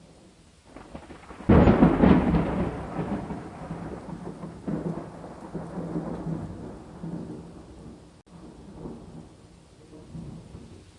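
A thunderclap that breaks suddenly about a second and a half in and rolls on as a rumble, fading unevenly over the next several seconds, over steady rain.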